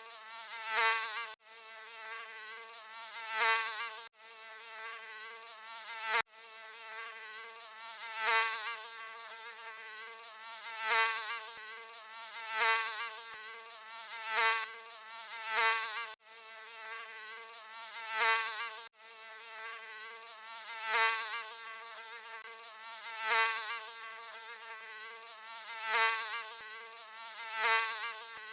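Mosquito buzzing: a steady high-pitched whine that swells loud about every two seconds, as if the insect were flying close past the ear, with a few sudden brief cut-outs.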